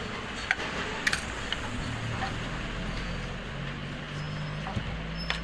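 Metal clicks and clinks of screws and a tool as the ceiling fan's motor housing is closed and its screws are tightened, with a low steady hum from about two seconds in.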